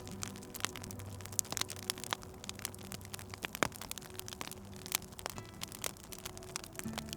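Wood fire crackling in a fireplace: irregular sharp pops and snaps, several a second, over a faint low steady hum.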